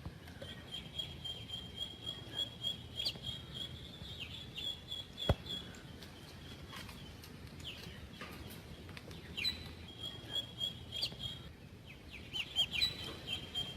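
Small birds chirping: a high, rapid trill that holds for a few seconds, comes back twice later, and is mixed with short falling chirps.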